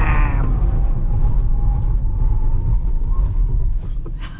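Range Rover Autobiography braking hard from speed, heard from inside the cabin: a heavy road and tyre rumble with a faint tyre whine. The rumble dies away near the end as the vehicle comes to a stop.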